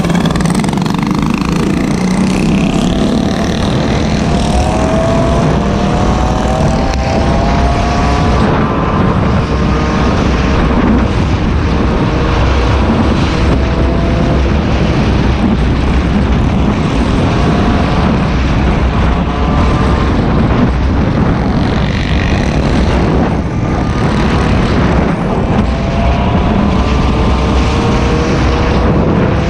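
Small gasoline engines of mini bikes and gas scooters running on the move, their pitch rising again and again as they rev up, over a heavy low rumble.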